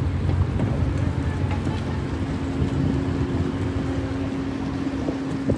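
An engine running steadily with a low hum, a steady higher tone joining about halfway through and cutting off suddenly at the end.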